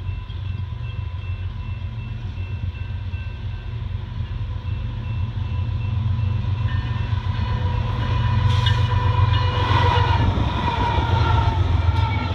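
Canadian National diesel freight locomotive approaching and passing at speed, sounding a long steady horn chord over the low rumble of its engine and the intermodal train's wheels. Both grow louder as it closes in, and the horn drops slightly in pitch as the locomotive goes by near the end.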